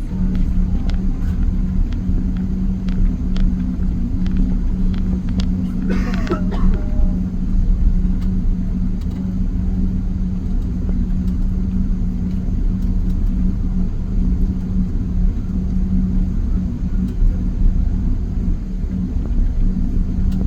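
Boeing 777-200 cabin noise while taxiing: a steady low rumble with a continuous hum, and scattered light clicks and rattles.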